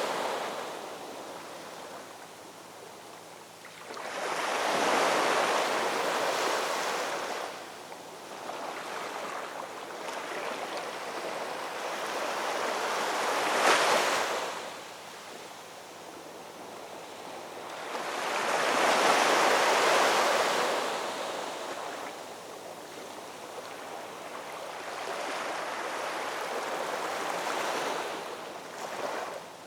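Ocean waves breaking and washing on the shore, rising and falling in slow swells every several seconds, with four or five big surges.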